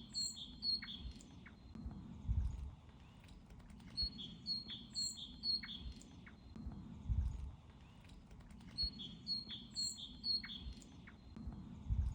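Small bird chirping: a phrase of quick high chirps that repeats about every five seconds, each phrase followed by a soft low thud.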